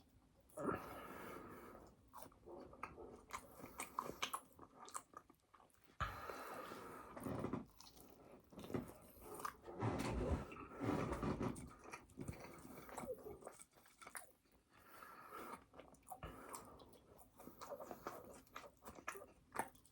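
A person biting and chewing a burger and fries in irregular bouts, with brief pauses between.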